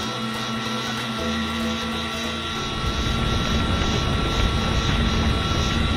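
Cartoon engine sound effect: a steady motor whine, joined a little under halfway through by a loud low rumble.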